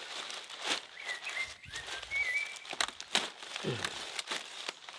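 Scattered rustling and crinkling, with brief thin chirps of a small bird between about one and two seconds in.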